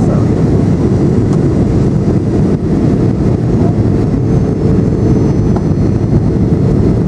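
Steady roar of a Boeing 737-800's CFM56 engines and airflow heard inside the passenger cabin during the landing approach.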